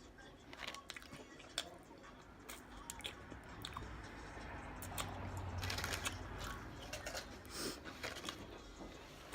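Close-up chewing and biting into a sub sandwich, with scattered short crunches and mouth clicks.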